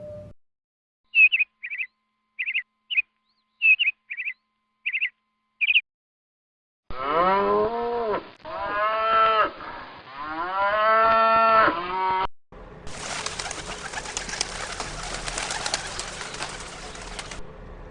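A sequence of wild animal calls cut one after another: eight short, high chirps, then loud, drawn-out lowing calls that rise and fall in pitch, then a harsh, rasping noise for about five seconds that stops suddenly.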